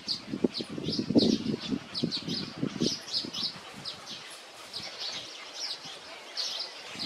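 Small songbird chirping over and over in short, high chirps, several a second. Through the first three seconds there are low, irregular rustling knocks as well.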